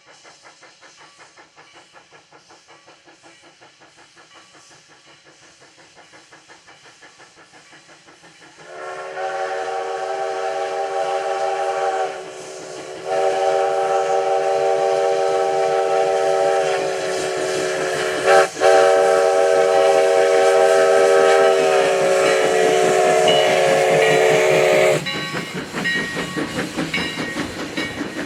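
Steam locomotive Sierra No. 3, a 4-6-0, running with a rhythmic pulsing sound. About eight seconds in, its steam whistle sounds a loud, steady blast of several tones together. After a brief break comes a second, longer blast of about twelve seconds, dipping for an instant midway. When the whistle stops, the train's rhythmic running sound goes on, louder.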